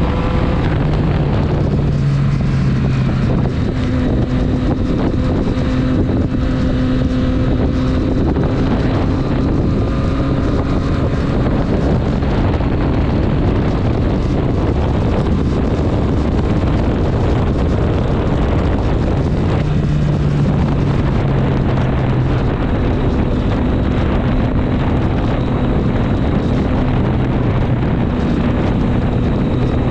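Triumph Street Triple 765 S three-cylinder engine running under way with heavy wind noise on the microphone. The engine note holds steady, stepping down in pitch a little a couple of times.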